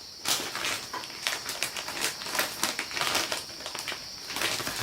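Irregular clicking and crinkling handling noises over a steady high-pitched hiss.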